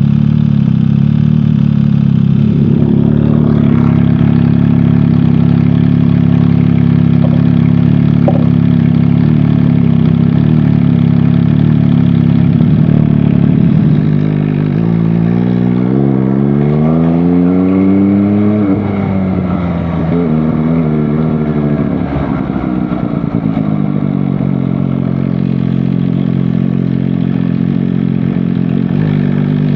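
MV Agusta Dragster 800 RR's three-cylinder engine running steadily through its exhaust. About halfway in it revs up for a few seconds, drops back, rises briefly once more, then settles to a steady note.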